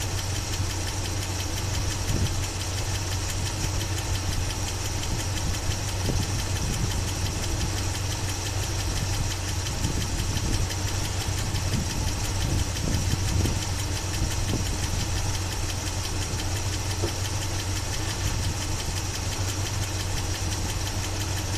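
1976 Chevy Blazer's engine idling steadily, heard close up over the open engine bay.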